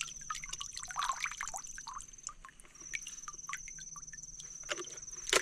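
Plastic toys being rinsed in water: light splashes and scattered small clicks, over a faint steady high-pitched tone.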